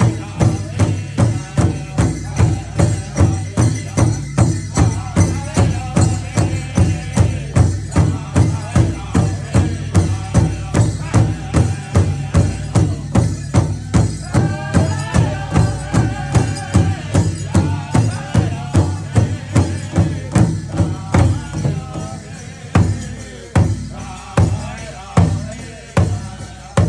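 A drum struck in a steady beat, about two strokes a second, with voices singing over it. Near the end the beat thins to a few separate loud strokes with gaps between them.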